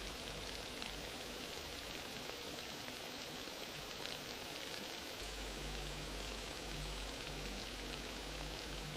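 Wood fire crackling in a fireplace: a steady hiss scattered with small pops and snaps.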